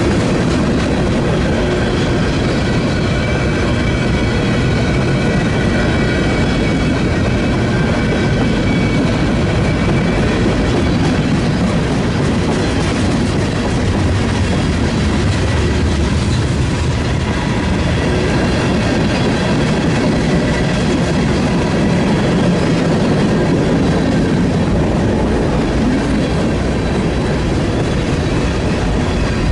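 A train rolling past, its railcars clattering steadily over the rails with a clickety-clack.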